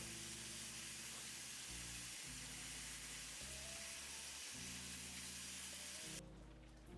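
Steady hiss of water running, cut off suddenly near the end, over soft jazz with low bass notes changing about once a second.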